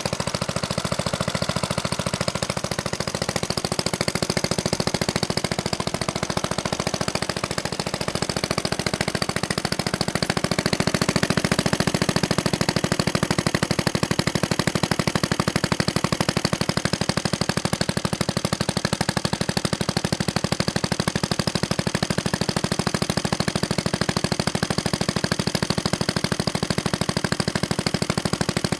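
Vintage Clinton small engine running steadily, with a rapid, even stream of sharp exhaust pops, speeding up slightly around ten seconds in and then settling.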